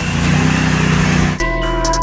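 A motor engine running steadily, cut off abruptly about one and a half seconds in by electronic music with a beat.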